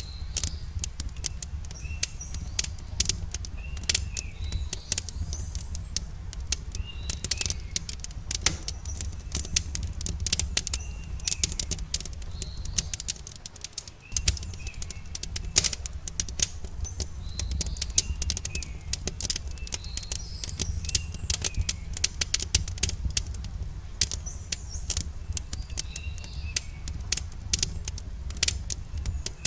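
Campfire crackling, dense sharp pops and snaps of burning wood over a steady low rumble. Small birds chirp in short repeated phrases every second or two.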